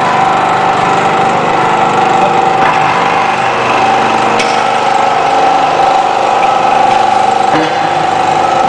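Electro-hydraulic drive of a Y81-130 scrap metal baling press running: a steady, high hydraulic-pump whine over a loud mechanical rattle, with a couple of light knocks.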